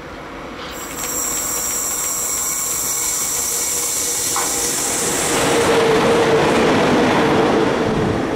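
Electric locomotive passing close on the adjacent track. A high hiss from the rails rises as it approaches, then wheel and running noise grows loudest as it goes by about five to eight seconds in.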